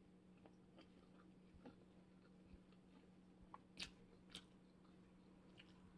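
Very faint chewing with scattered small clicks from shrimp being handled and peeled by hand, two of them a little sharper about four seconds in, over a low steady hum.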